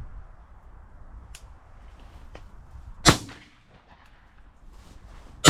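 Two shotgun shots about two and a half seconds apart, the second near the end. Each is a sharp report with a short echo trailing after it.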